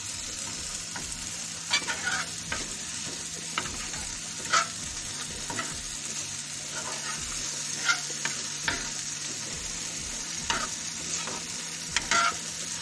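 Marinated chicken pieces sizzling in oil in a frying pan, with a spatula scraping and clicking against the pan at irregular moments as it is stirred.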